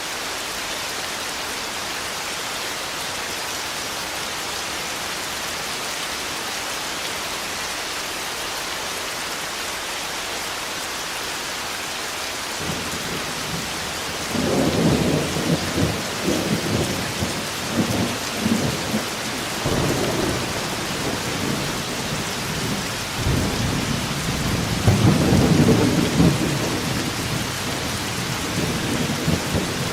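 Steady heavy rain, with thunder rolling in about halfway through and rumbling in waves, loudest in two swells near the middle and again a few seconds before the end.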